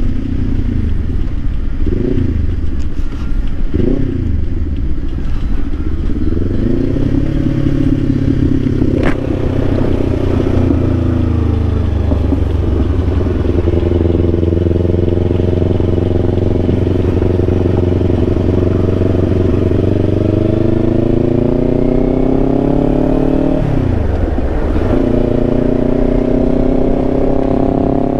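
Kawasaki Ninja 500's parallel-twin engine under way, its pitch climbing and settling as the bike rides. The pitch dips sharply and recovers twice near the start and once near the end, as at gear changes, with a long steady stretch at cruising speed in between.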